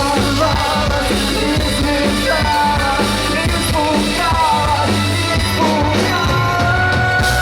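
Live rock band playing, with a lead vocalist singing a melody over the band.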